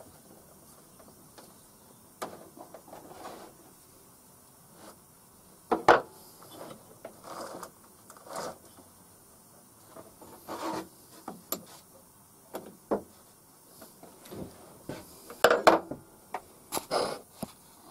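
Chainsaw bar and chain being handled and adjusted during reassembly: scattered metal clicks, knocks and rubbing scrapes at an uneven pace, loudest about six seconds in and again near the end.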